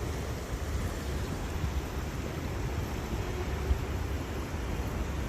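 Steady rush of flowing stream water, with a low rumble of wind on the microphone and a brief thump about three and a half seconds in.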